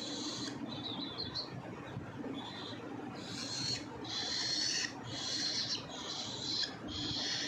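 Parrot chicks giving hissing food-begging cries during hand-feeding. The cries are short and repeated, faint at first, then louder and nearly back to back from about three seconds in.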